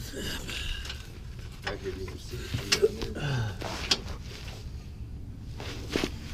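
Hand tools clicking and knocking against the S10's front suspension parts during A-arm work: a few separate sharp knocks, with low muttered speech between them.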